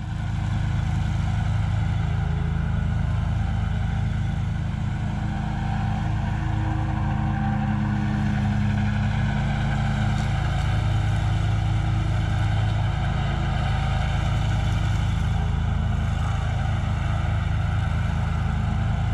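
Riding lawn mower's engine running at a steady speed under mowing load.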